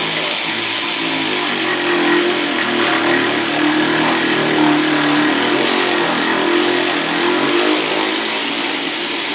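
A motor running steadily and loudly for about ten seconds, with a slightly wavering pitch, then cutting off just after the end.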